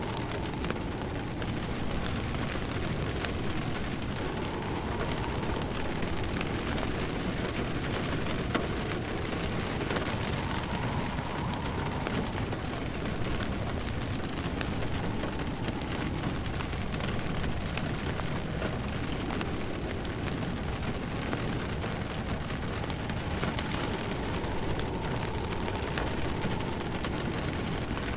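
Steady rain mixed with a crackling wood fire in a fireplace, with scattered small pops and snaps of burning wood over an even wash of rain.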